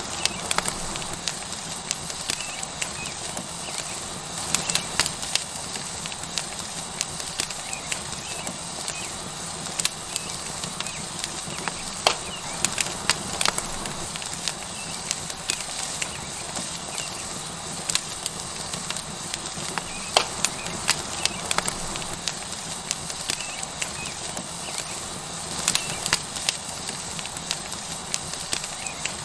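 Tomahawk steak sizzling on a hot stone over a wood fire: a steady hiss with frequent irregular crackles and pops from the burning wood.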